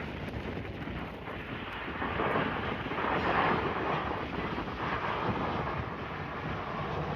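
Gusty wind buffeting the microphone over the engine noise of an airliner at the airport, swelling louder about two to four seconds in.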